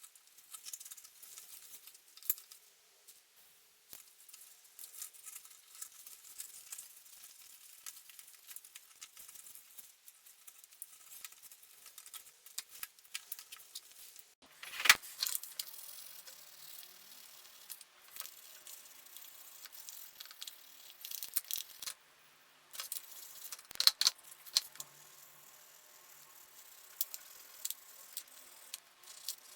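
Small clicks, rattles and knocks of parts and tools being handled on a workbench, with a sharper knock about halfway through and another near the end.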